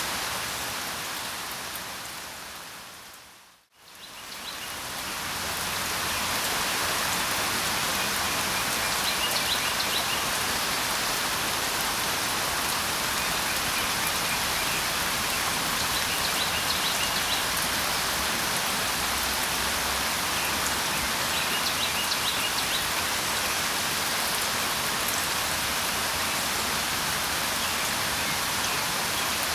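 Steady rain falling, which fades out to near silence about three and a half seconds in and swells back up over the next two seconds, like the seam of a looped recording. Faint high bird chirps come through the rain three times.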